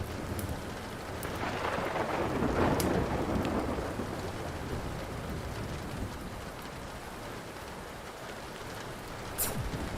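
Steady rain with a roll of thunder that swells and fades about two seconds in. Wood fire crackles tick through it, with one sharp pop near the end.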